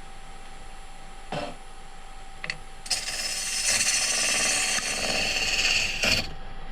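Wood lathe running with a steady hum while a turning tool hollows out a spinning poplar blank. Two short knocks come early, then about three seconds in the tool bites in and a loud cutting hiss of wood being shaved away runs for about three seconds.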